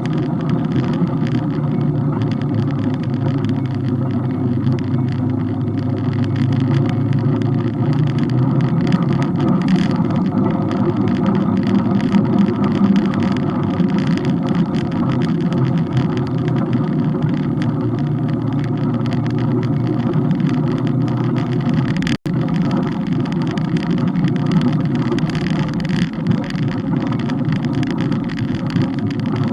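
Steady rumbling ride noise from a camera mounted on a moving bike: wind buffeting the microphone over road and vehicle noise. The sound cuts out for an instant about three-quarters of the way through.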